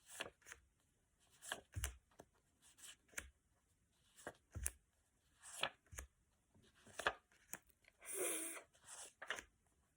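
Quiet handling of paper flashcards: scattered soft taps, clicks and rustles as cards are moved and slid about, with one brief faint voice-like sound about eight seconds in.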